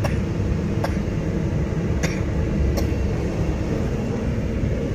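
Indian Railways sleeper coach running, heard from inside the berth: a loud, steady low rumble with three short sharp clicks.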